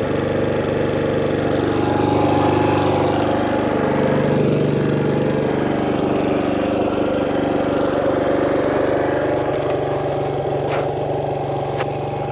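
Single-cylinder four-stroke dirt bike engine running under light throttle on the trail, swelling briefly about two to four seconds in, then settling; a few sharp clicks near the end.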